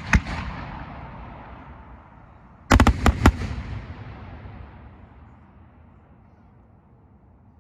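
A flight of 4-inch lampari fireworks shells: one sharp bang right at the start, then about three seconds in a quick cluster of four bangs as the shells burst overhead. Rumbling echoes fade out over the next few seconds.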